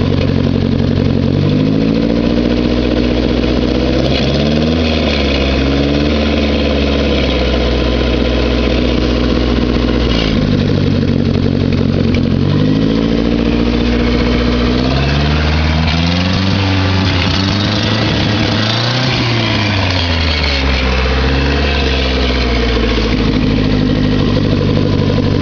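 1981 Toyota Tercel engine and exhaust running while the car stands still. The pitch holds steady, then rises and falls several times as the engine is revved and let back down. The exhaust noise the owner recorded is in this sound.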